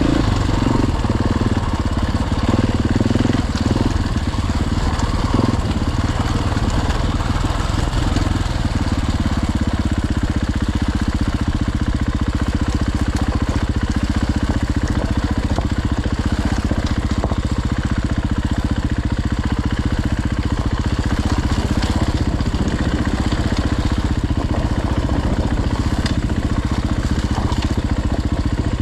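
Dirt bike engine idling steadily, a little uneven for the first several seconds before settling into an even idle.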